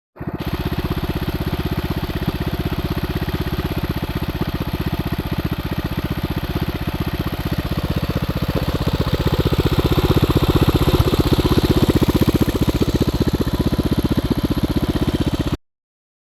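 Axis M200 minibike's 196cc single-cylinder engine, fitted with a stage 1 kit, running steadily with a fast, even firing rhythm, a little louder partway through. The sound starts and cuts off abruptly.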